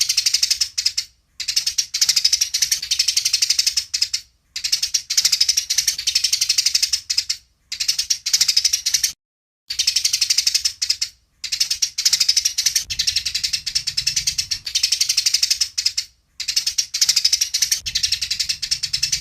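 Eurasian tree sparrows giving their fighting chatter: fast, dry, ratchet-like runs of notes in about seven bursts of one to three seconds, with short breaks between.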